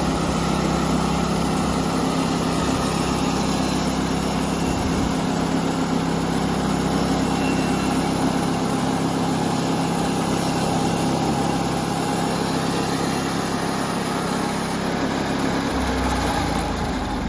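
Norwood LumberPro HD36 portable band sawmill's gas engine running steadily at speed while a black walnut log is milled.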